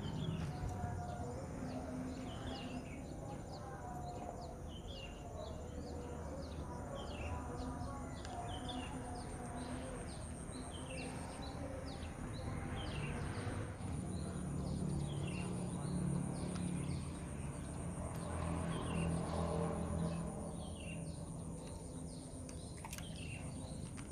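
Small birds chirping, short high chirps repeating every second or so, over a thin steady high-pitched tone and a low rumble.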